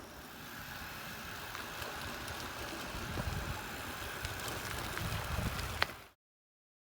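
Steady wind and road noise from riding a bicycle along a rough, wet road, with an uneven low rumble under it. A click comes just before the sound cuts off abruptly about six seconds in.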